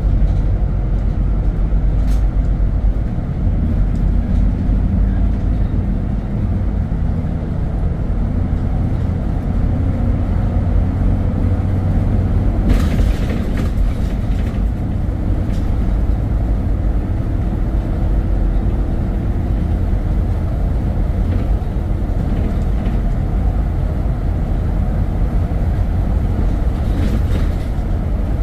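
Steady low rumble of a vehicle under way on the road, engine and road noise, with a short clatter about halfway through and again near the end.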